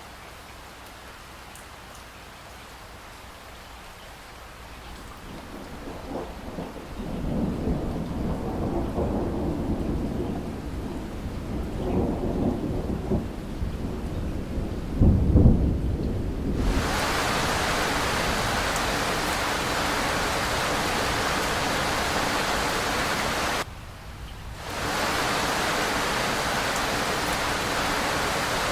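Soft rain, then thunder rumbling and building for about ten seconds to its loudest clap about 15 seconds in. Shortly after, the sound switches abruptly to a heavy, steady downpour, which dips sharply for about a second near the end.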